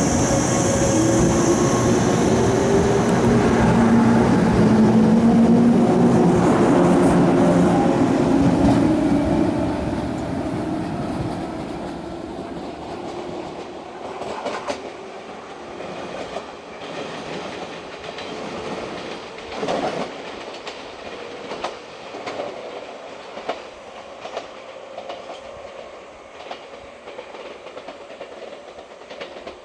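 A 413 series electric train pulling away, its traction motors humming in shifting tones as it picks up speed. The sound then fades into the distance, with wheels clicking over rail joints at spaced intervals, growing fainter.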